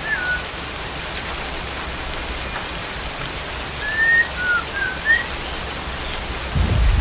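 Steady rain with a bird's clear whistled notes: one short whistle at the start and a quick phrase of four whistles about four seconds in. A low rumble comes up near the end.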